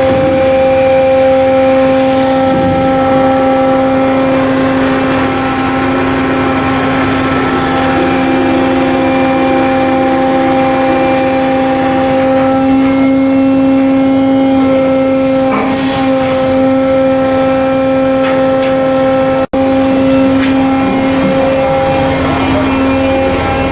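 Machinery running steadily: a loud, constant droning hum with several higher tones above it. It breaks off for an instant about twenty seconds in, then carries on the same.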